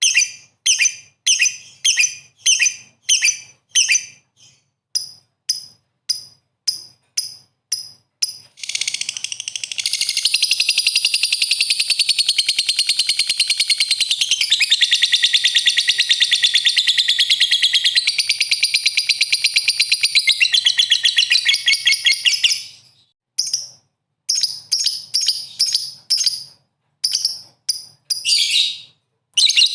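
A songbird calling: a run of short, high chirps at about two a second, then a long, fast, unbroken trill of about fourteen seconds, then short chirps again.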